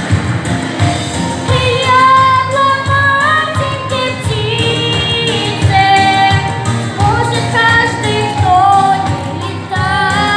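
A female singer sings a song with long held notes that waver in pitch, over a recorded backing track with a steady beat.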